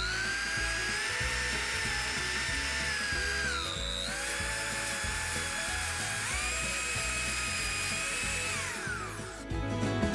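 Handheld electric power tool running at speed with a high motor whine. The pitch sags briefly a few seconds in and recovers, jumps higher a little past halfway, then winds down and stops near the end. Background music plays underneath.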